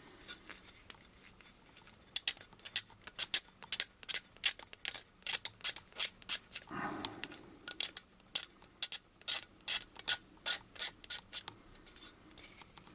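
A small hand tool scraping a styrene plastic model part in short, quick strokes, about two or three a second, with one longer stroke midway, as mold marks and bumps are smoothed out of a channel.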